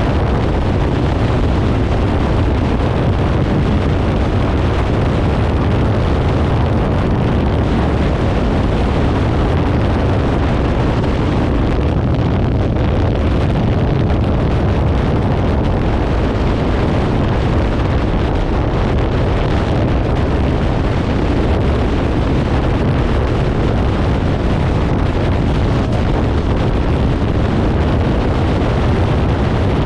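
Kawasaki Ninja 500's parallel-twin engine running steadily through a Leo Vince aftermarket exhaust while riding, with wind rushing over the microphone.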